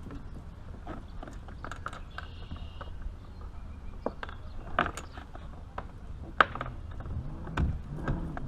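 Irregular clicks and knocks of fishing gear being handled aboard a kayak, over a low steady background rumble.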